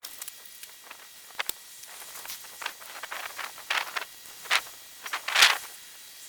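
Irregular rustling and crackling over a faint steady hiss, with a sharp click about a second and a half in and three louder rustling bursts in the second half.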